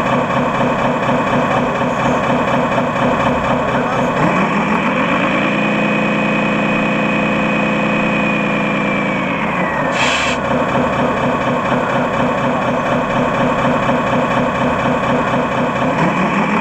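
Radio-controlled scale model truck running, its engine sound and motor whine rising in pitch as it speeds up, holding steady for a few seconds, then falling as it slows. A short hiss comes partway through, as the pitch drops.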